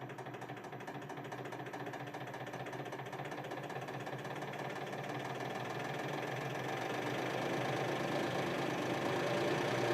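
Hydraulic press's motor and pump running steadily while pressing down on a small steel anvil, slowly getting louder as the load builds.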